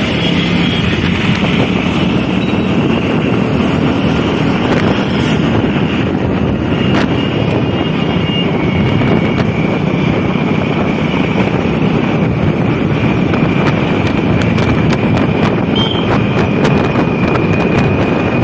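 Steady wind rushing over the microphone mixed with the running engine of a Hero Honda Splendor motorcycle being ridden.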